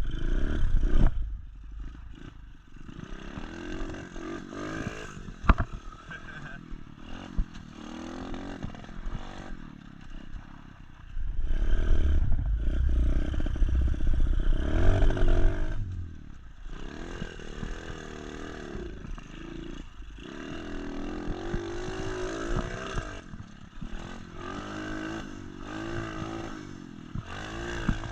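SSR 125 pit bike's single-cylinder four-stroke engine being ridden, its pitch rising and falling again and again as it revs up and eases off. It is loudest at the very start and again from about eleven to sixteen seconds in, with a heavy low rumble.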